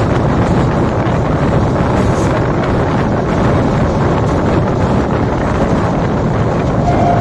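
Moving passenger train heard on board at speed: a steady rumble of wheels on the track mixed with wind rushing over the microphone.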